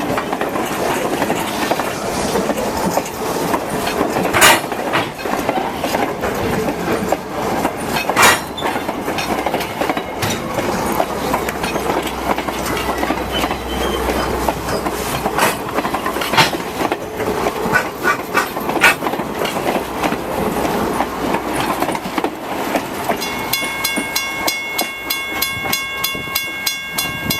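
Strasburg Rail Road train rolling along with steady running noise, its wheels clicking over rail joints now and then. Near the end a fast, evenly repeating ringing starts up over the train noise.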